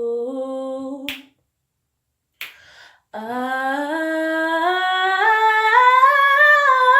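A woman singing unaccompanied, a wordless 'ooh': one held note that ends about a second in, then after a short pause a long note that climbs slowly in pitch, in steps. Two short sharp sounds fall in the pause.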